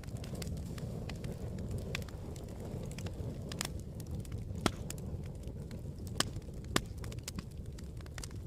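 Campfire crackling: a steady low rumble of the burning wood with scattered sharp pops and snaps, a few louder pops in the second half.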